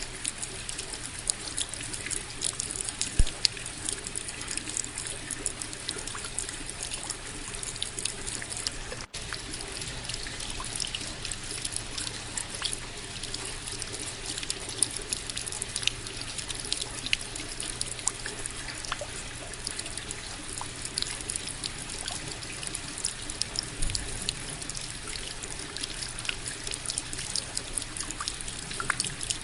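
Steady rain falling, a continuous wash of water dotted with many small drops ticking, with a momentary dropout about nine seconds in.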